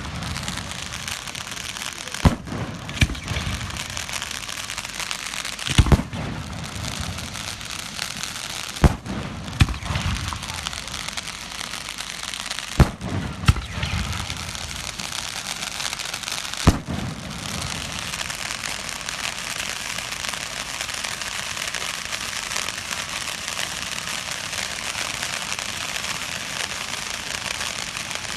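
Fireworks going off: a string of sharp bangs a few seconds apart, each trailing off in a low rumble. From a little past halfway the bangs stop and a steady, dense crackling takes over.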